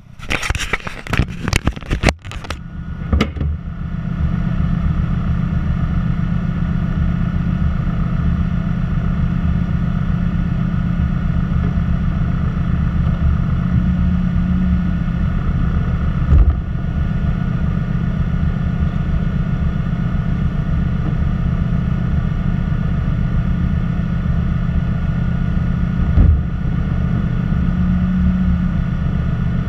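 Knocks and scrapes of the camera being handled and set down during the first few seconds. Then a vehicle engine idles steadily and low, with two brief thumps.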